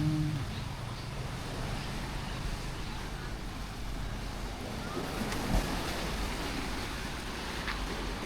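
Steady outdoor noise of traffic and wind on the microphone, with one short thump about five and a half seconds in.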